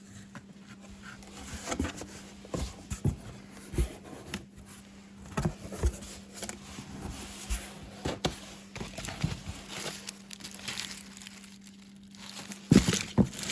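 Cardboard shipping boxes being opened and handled by hand: irregular crinkling, tearing and short knocks of the packaging, with a louder knock near the end.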